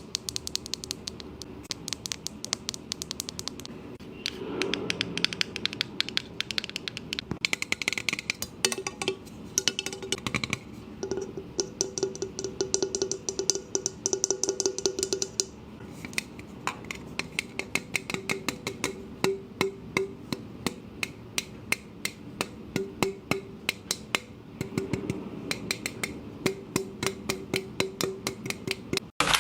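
ASMR tapping and scratching on objects close to the microphone: a fast, dense run of small clicks and taps, some of them ringing briefly with a low tone.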